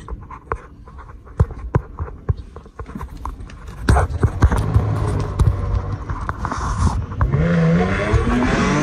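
Rustling and knocking of a phone rubbing against clothing and a seatbelt inside the car. From about seven seconds in, the Ripp-supercharged 3.6-litre V6 of a Dodge Challenger accelerates, its pitch rising and then holding.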